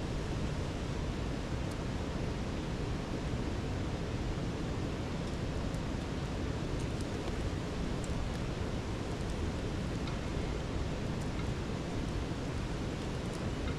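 Steady, low-pitched rushing noise at an even level, with a few faint sharp crackles scattered through it.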